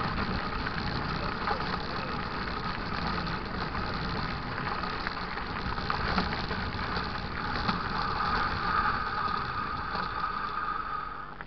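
Continuous riding noise from a mountain bike on a dirt trail: a steady rush with a constant whir, and small rattles and ticks from the bike over the ground.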